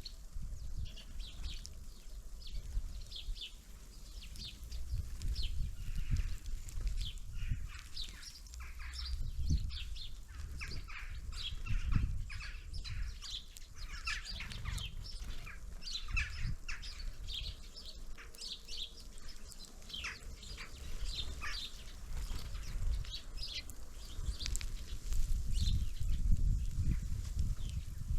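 Small songbirds at a feeder chirping and calling, many short high chirps overlapping throughout, over a low rumble that grows louder near the end.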